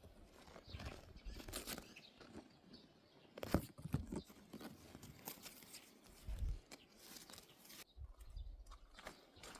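Irregular faint crunches and knocks, the loudest about three and a half seconds in, with a low thump a little after six seconds.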